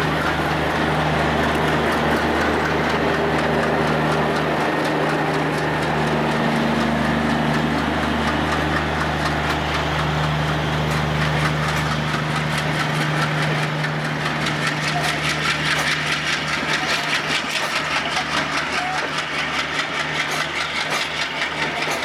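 A WDM-3D diesel locomotive's engine runs steadily as the train pulls away. From about halfway in, the passing coaches' wheels click over the rail joints, the clicks coming faster as the train gathers speed.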